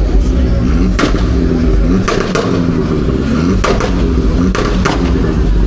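A car engine running loudly, with a series of sharp bangs from its exhaust: about seven pops, some in quick pairs, over the engine note.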